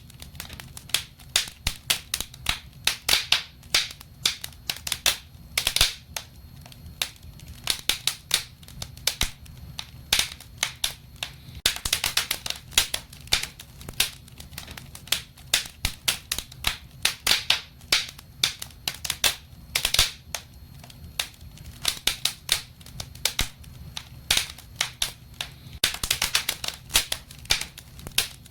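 Wood fire burning in a fireplace, crackling and popping with many irregular sharp snaps over a low steady rumble of the flames.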